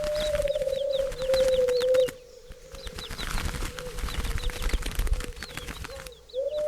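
A turtle dove giving one long, low purring coo, with high, quick, falling chirps repeating over it. The coo breaks off near the end and starts again.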